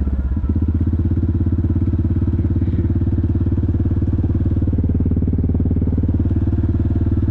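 Yamaha Grizzly ATV's single-cylinder engine running steadily at an even speed, with a regular throb.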